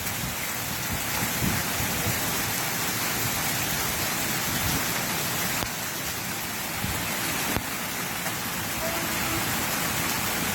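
Volcanic stones and ash from La Soufrière's eruption falling like heavy rain, a steady pattering hiss, with a low rumble from the erupting volcano underneath.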